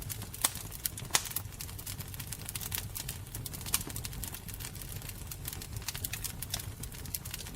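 Fire burning with a steady low roar and frequent crackles and pops of burning wood, the sharpest pops about half a second, a second and near four seconds in.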